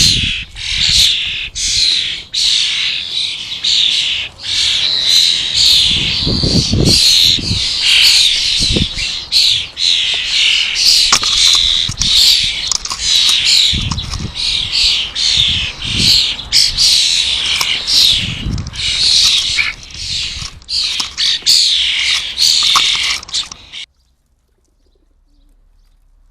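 Small garden birds chirping rapidly and continuously in a dense chorus of high calls, with a few low thumps among them. The sound cuts off abruptly about 24 seconds in.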